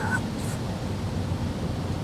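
Steady outdoor background rumble and hiss, like wind and distant traffic, with a brief high chirp right at the start.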